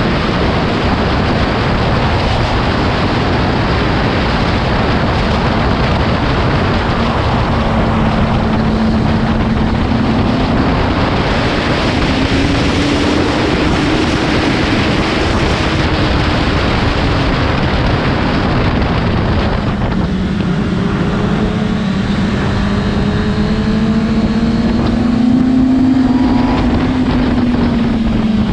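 Motorcycle at speed on a race track: heavy wind rush over the microphone, with the engine note rising and falling slowly as the bike speeds up and slows. About two-thirds of the way through the wind eases and the engine note comes through more clearly.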